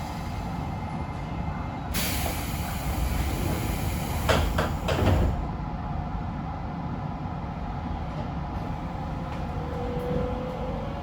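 Cabin of a Keisei 3700 series train standing at a platform: a hiss of air and a few knocks in the middle, as the doors close. About ten seconds in, a thin, slowly rising tone sets in: the Toyo GTO VVVF inverter starting up as the train begins to pull away.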